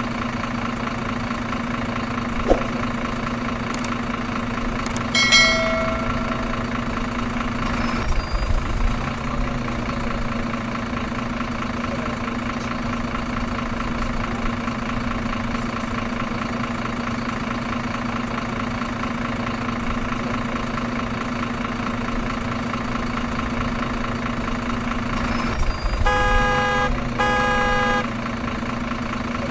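Truck engine running steadily at an even drone, with two short horn honks near the end.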